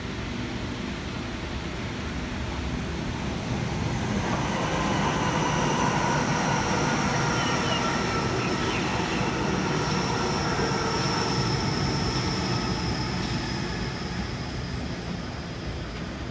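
Double-deck Sydney Trains electric train passing close by: the rumble of its running builds about four seconds in, holds for several seconds, then fades. Thin high whines ride over it, the highest sliding slowly lower.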